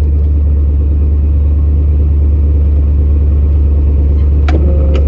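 Old pickup truck engine running steadily with a low drone. Two sharp clicks come just before the end.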